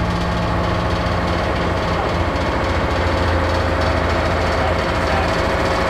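Heavy excavator engine running steadily close by, with a rapid, even clatter.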